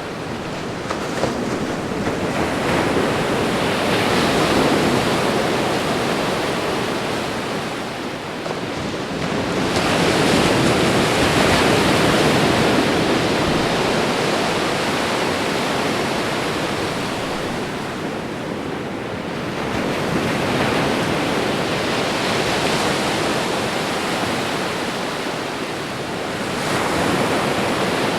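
Ocean surf breaking and washing ashore: a continuous rushing noise that swells with each wave and ebbs between them, about every six to ten seconds.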